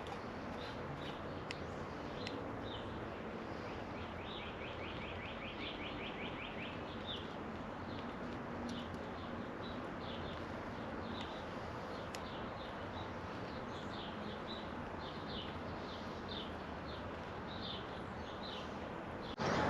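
Birds chirping repeatedly, with a quick trill of chirps about four to seven seconds in, over a steady low hiss.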